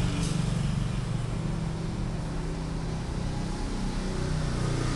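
A steady low mechanical drone, like an engine running nearby, with a faint brief click just after the start.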